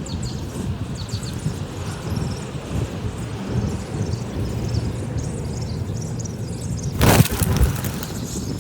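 Wind rumbling on the microphone, with faint high bird chirps behind it and a louder burst of noise about seven seconds in.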